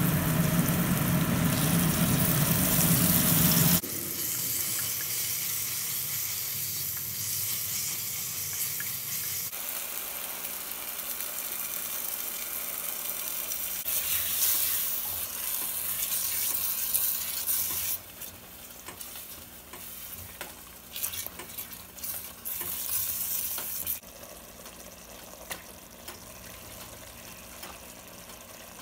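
Curry masala of onions, tomatoes and green chillies frying and sizzling in a pot, stirred with a wooden spatula that scrapes the pot. A loud low hum runs under it for the first four seconds. After that the sizzle is quieter, with separate stirring scrapes standing out near the end.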